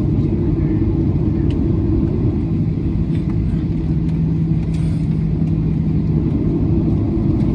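Steady low rumble of a Boeing 737-900's CFM56-7B jet engines and airflow heard from inside the passenger cabin, with a constant low hum running through it.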